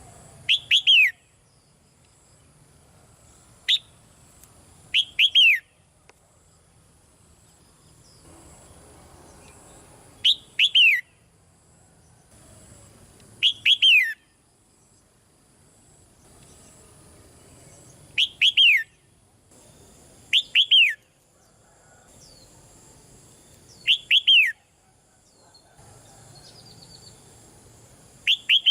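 Red-whiskered bulbul calling: about nine short, loud phrases of two or three quick falling whistled notes, repeated every few seconds.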